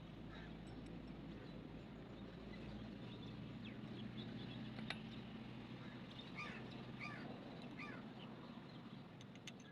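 Faint bird chirps, a few short falling calls, over a steady low background hum, with a couple of sharp clicks.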